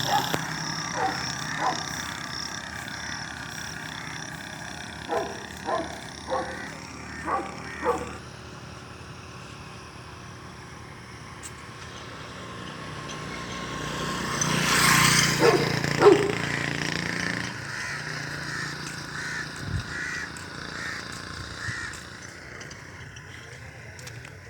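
Short animal calls: about five in quick succession a few seconds in, then a louder stretch of noise with two more calls about two-thirds of the way through, over a steady background.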